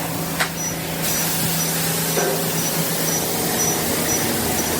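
High-pressure car wash wand spraying rinse water, a steady hiss over a low pump hum, getting louder about a second in. A faint high-pitched beep repeats about twice a second.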